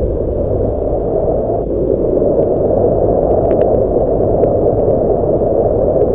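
Steady low rushing noise of wind buffeting the microphone, with a few faint short clicks a little past the middle.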